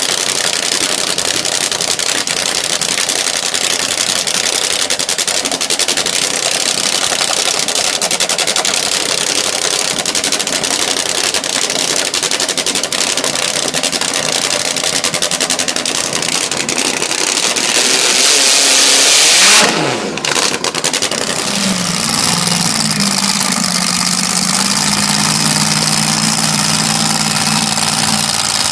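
Loud performance car engine running with a rapid pulsing note. About two-thirds of the way in it is revved up hard, then drops away sharply and settles into a steadier, lower idle.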